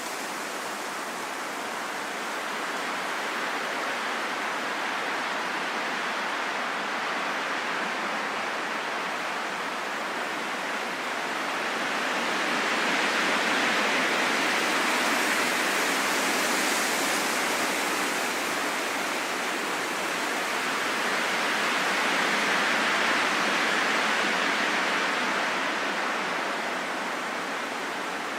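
Steady rain falling in a forest: an even hiss that swells a little twice.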